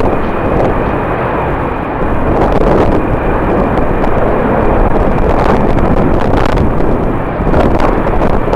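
Jet airliner engines running with a thin, steady whine over a dense rumble, under strong wind buffeting the microphone.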